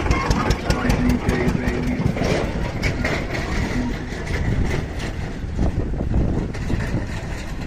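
Massey Ferguson 9500 tractor's diesel engine running steadily at about 1700 rpm while pulling a nine-tine cultivator, with many short sharp clicks and knocks over the engine sound.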